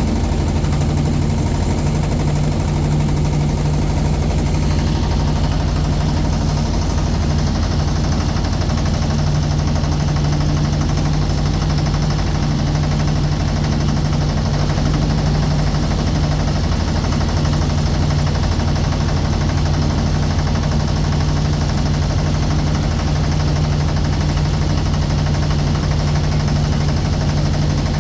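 Motorboat engine running steadily at an even pace, heard from on board.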